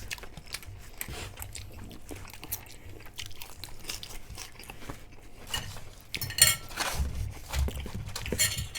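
Close-up chewing of Doritos-chip nachos: many small crisp crackles, with a few louder crunches about six and a half and eight and a half seconds in.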